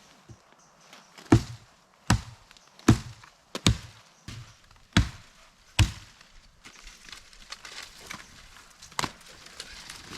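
Seven heavy strikes on wood, about one every three-quarters of a second, followed by a steady rustling with small crackles.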